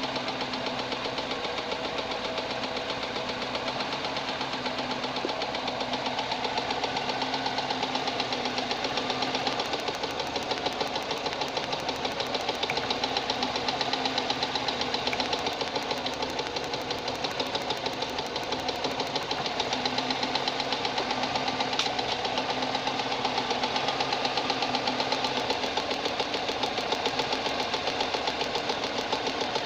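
VAZ-2108 1.3-litre carburettor four-cylinder engine running with a steady, rhythmic knock. The knock comes from the piston in the fourth cylinder, whose skirt has broken apart, leaving fragments in the oil pan.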